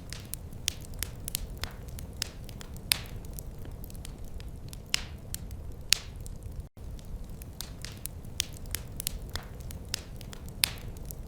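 Wood fire crackling in a fireplace: irregular sharp pops and snaps, a few of them loud, over a steady low rumble of the flames. A momentary dropout to silence comes about two-thirds of the way through.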